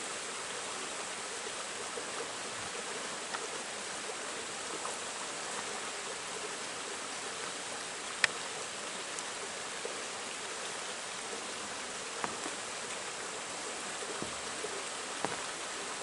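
Shallow mountain stream flowing steadily over rocks, a low, thin flow of water, with a few faint clicks, the clearest about halfway through.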